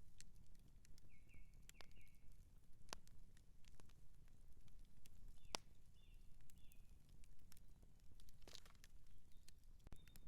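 Wood campfire crackling, with irregular snaps and pops over a low rumble and one sharper pop about halfway through. Short high chirps come a few times, about a second in, around the middle and near the end.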